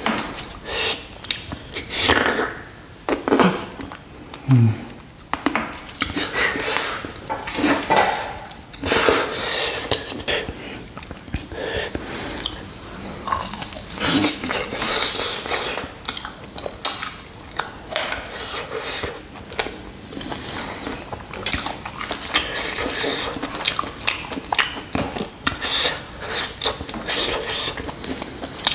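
Close-up wet eating sounds of a man chewing and sucking meat off spicy mutton nalli marrow-bone pieces: irregular smacks, slurps and squelches, with a few short falling sucks a few seconds in.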